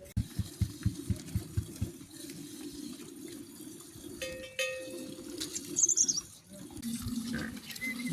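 Water sloshing and splashing, opening with a quick run of low knocks, about five a second for two seconds. A brief high chirp comes about six seconds in.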